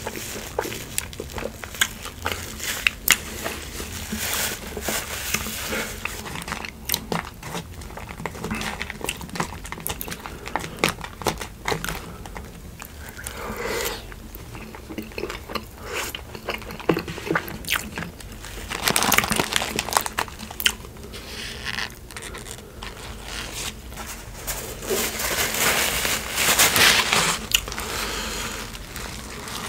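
Close-miked eating sounds of In-N-Out animal-style food: chewing and biting with many sharp wet mouth clicks and crunches, mixed with paper wrapper crinkling. Two longer stretches of denser crinkly noise come in the second half.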